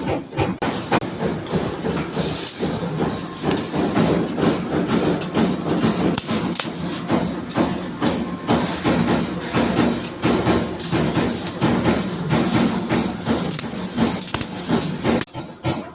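CNC punch press punching sheet metal: a rapid, uneven series of sharp metal hits over a steady machine din.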